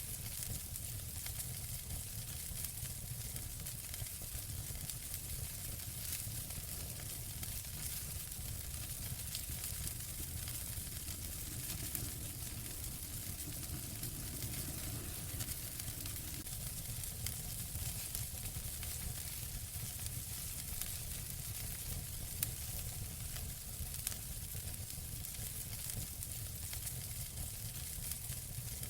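Wood fire in a fireplace crackling, with frequent small pops over a steady hiss and low rumble.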